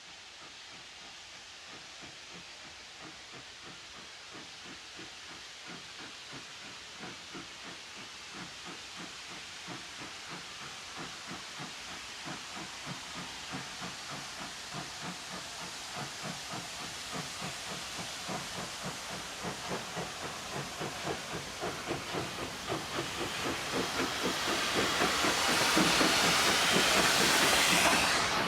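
Z19 class steam locomotive 1919 working toward the listener, its exhaust beating in an even rhythm of about two chuffs a second that grows steadily louder. Near the end a loud steam hiss rises over the beats before the sound cuts off suddenly.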